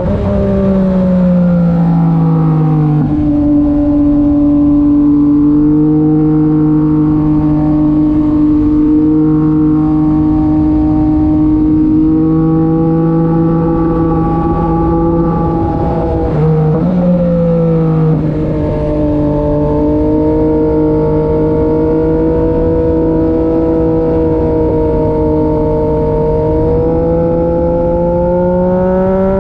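Yamaha MT-09 SP's three-cylinder engine, through an aftermarket SC-Project exhaust, pulling at steady revs while riding. The revs drop in the first few seconds. About halfway through there is a brief dip and jump in pitch, and the revs climb again near the end.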